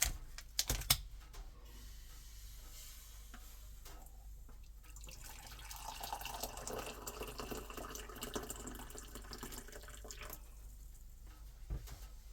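Liquid running into a container, after a few sharp clicks and knocks in the first second.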